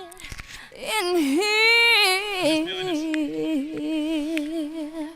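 Background music: a woman singing slow, long-held notes with vibrato, with little accompaniment.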